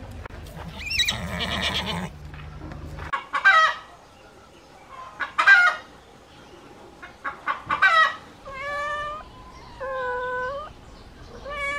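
Chickens clucking and a rooster crowing in short, loud calls, followed near the end by a cat meowing three times, each meow held for under a second.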